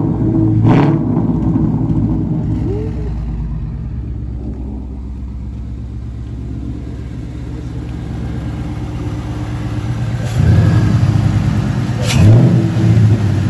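2017 Ford Mustang GT's 5.0 L V8 with aftermarket exhaust and cold air intake, revving and pulling away. It fades in the middle, then comes back louder near the end with sharp rev blips.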